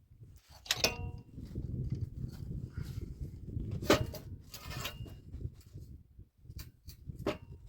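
Several sharp metallic knocks and clinks a second or more apart, a couple of them with a brief ringing tone, over a low rumble: metal parts or tools handled during the heater install.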